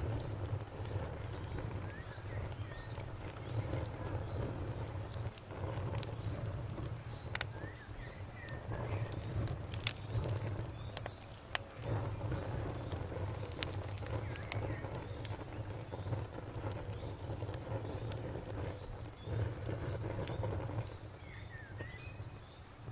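Wood fire crackling, with scattered sharp pops over a low, steady rumble, while a cricket chirps in an even, pulsing high trill and a bird gives a few short chirps.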